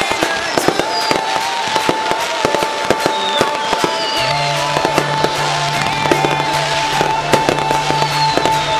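Aerial fireworks going off: dense crackling and popping, with several whistles falling in pitch. A steady high tone runs underneath, and a low steady drone joins about four seconds in.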